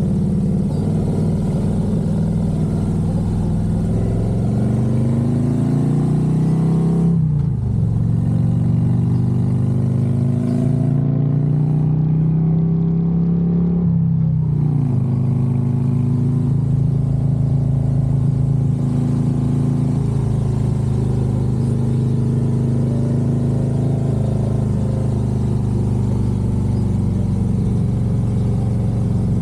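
Harley-Davidson Road Glide's V-twin engine pulling through the gears: the pitch climbs, drops sharply at an upshift about seven seconds in, climbs again to a second upshift about halfway, then holds steady at cruising speed.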